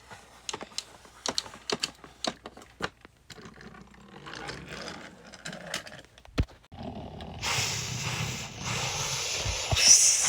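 Toy trains clicking and rattling as they are handled and run along the track, with sharp clicks and knocks. Near the end, a louder steady hiss takes over.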